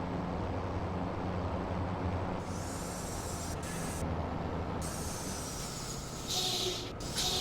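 Scania V8 diesel truck engine idling steadily, with bursts of compressed-air hiss from about two seconds in; the loudest hiss comes near the end.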